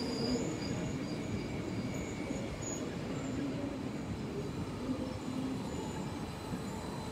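Regional electric multiple unit moving slowly along the platform: a steady rolling rumble of wheels on rail, with faint humming tones from its drive.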